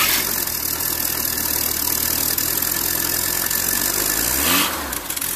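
Air-cooled VW flat-four, a 2007 engine in a VW bus, running on a cold start through a single quiet-pack muffler. It runs steadily and loud, with a brief rise in revs near the end.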